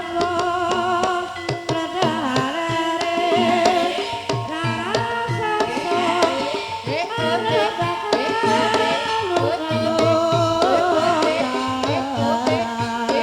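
Banyumasan gamelan music accompanying an ebeg dance: dense hand-drum (kendang) strokes under a wavering sung melody and held pitched tones.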